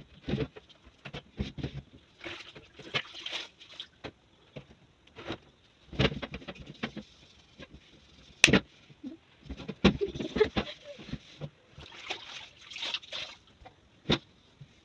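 Hand-washing a fridge's interior: water splashing and sloshing with brief swishes of wiping, broken by irregular knocks and clatters of items and fittings being handled.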